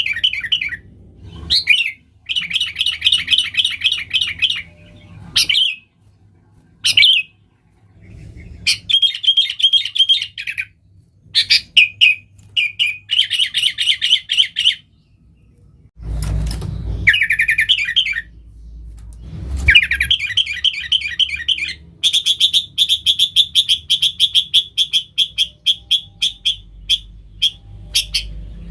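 Sooty-headed bulbul (kutilang) singing vigorously in bursts of rapid, chattering phrases separated by short pauses, breaking into a long unbroken rapid trill about two-thirds of the way in. A low rumble sits under the song for a couple of seconds around the middle.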